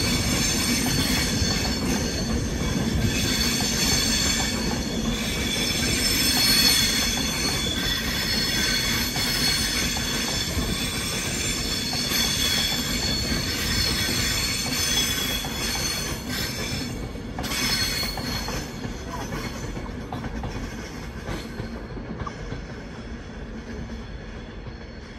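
Avanti West Coast Class 390 Pendolino electric train running past, its wheels squealing on the rails in several steady high tones. The squeal fades after about sixteen seconds, and the train's noise dies away toward the end.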